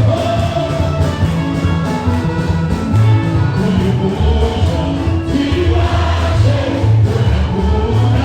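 Loud live gospel praise music: a band with a strong, steady bass line, with singing voices over it.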